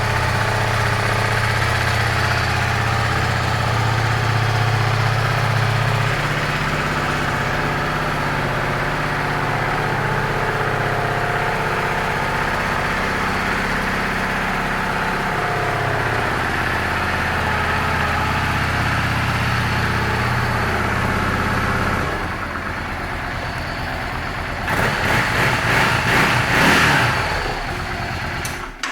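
2006 Yamaha V-Star 650 Classic's air-cooled V-twin idling steadily, then revved up briefly near the end.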